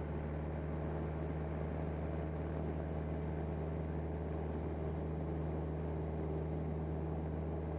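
Cessna 172N's four-cylinder Lycoming engine running at full takeoff power during the takeoff roll, a steady low drone.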